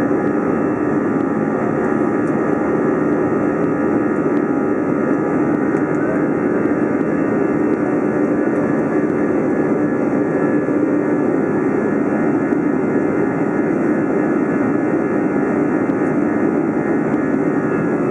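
Airbus A320-216's CFM56 jet engines running steadily at take-off thrust, heard from inside the passenger cabin: a loud, even rush with a steady hum of tones over it.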